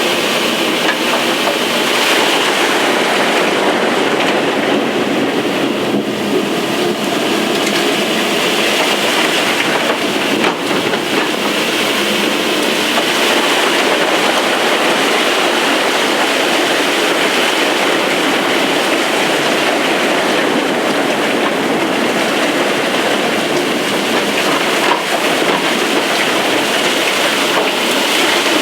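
Loud, steady noise of an opal-mining blower (a truck-driven vacuum hoist) running flat out, sucking excavated opal dirt up its pipe to the surface while the digging machine cuts at the wall.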